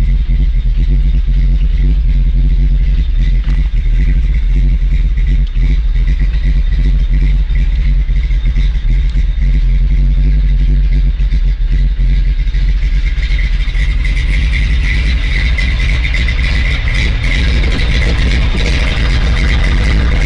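Chevy 383 stroker small-block V8 with a thumper cam running steadily, a loud, deep rumble. A brighter hiss builds in over the last third.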